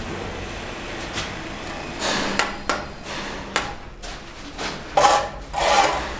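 Mason's hand tools working cement brick and mortar: a series of separate sharp knocks and scrapes, the loudest cluster near the end.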